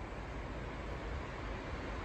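Steady low rumble and hiss of a train drawing near on the railway, growing slowly louder.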